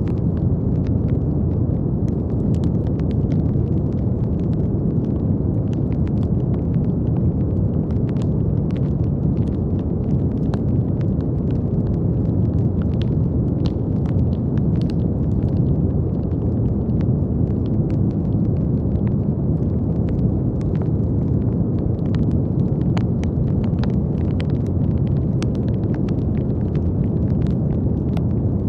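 Steady, deep brown noise: an even, low rumbling hiss with no rise or fall. Faint irregular crackling clicks are scattered through it.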